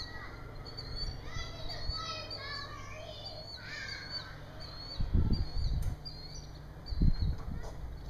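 Small birds chirping, short repeated calls over a faint steady low hum, broken by two loud low rumbling bursts around the middle and near the end.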